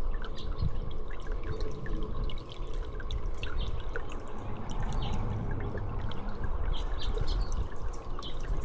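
Water steadily trickling and dripping, with many small sharp drip ticks over a low rumble.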